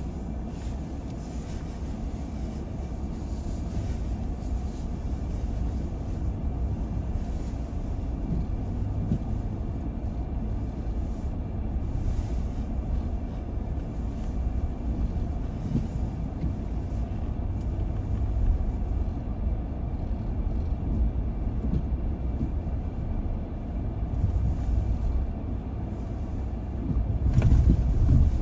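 Road noise of a car being driven: a steady low rumble of engine and tyres, briefly louder near the end.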